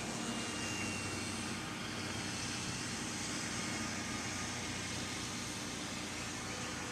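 Small electric R/C flyer's motor and propeller buzzing steadily in flight, mixed with wind noise.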